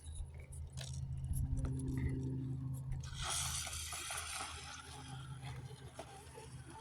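Radio-controlled scale crawler driving over rough ground: a steady low whir from its electric motor and gears, with clicks and rattling scrapes from the tyres and chassis on stones, the rattle growing louder about three seconds in.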